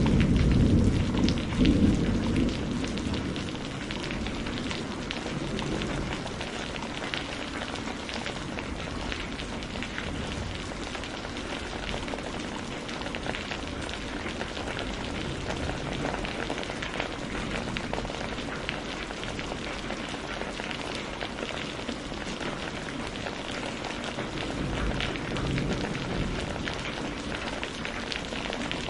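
Steady rain falling, a dense hiss of drops, with the tail of a low thunder rumble dying away over the first few seconds.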